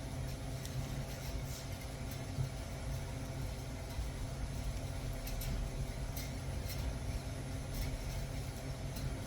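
A steady low mechanical hum with a few faint, light clicks over it.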